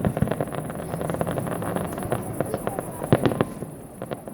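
Aerial fireworks display: a rapid run of bangs and crackling that thins out and gets quieter near the end.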